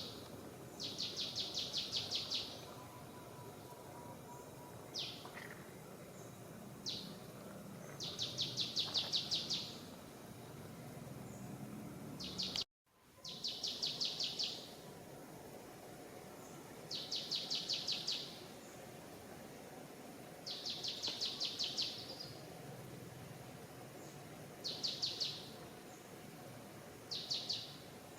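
A bird singing a repeated high song: fast trills about a second or two long, some led by a short sharp note, coming every few seconds over a steady background hiss. The sound drops out briefly about halfway through.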